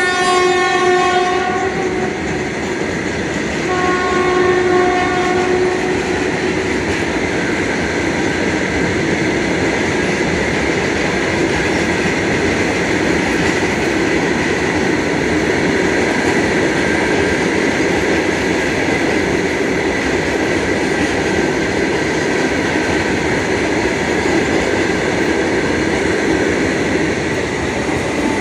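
A train horn sounds twice, a short blast at the start and a longer one about 3.5 seconds in, and then the steady rumble and clatter of a train running along the rails.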